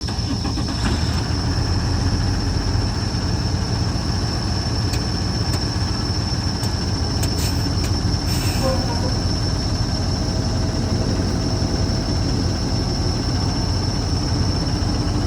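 Diesel engine of a 2009 Ford F750 medium-duty truck running at a steady idle: a constant low rumble with a thin high whine over it.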